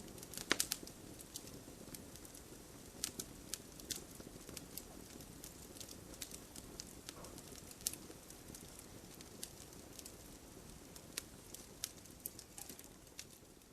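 Campfire burning: irregular sharp pops and snaps of burning wood over a soft steady hiss of the flames, with a quick cluster of louder pops about half a second in.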